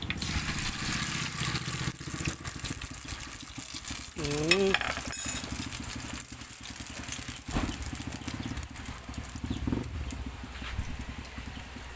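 Beaten egg and corned beef mixture poured into hot oil in a non-stick frying pan, sizzling as soon as it hits the oil and going on frying steadily.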